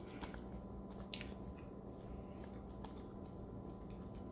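Faint close-up chewing and wet mouth clicks from a person eating fast food, with a few sharp smacks over a steady low hum.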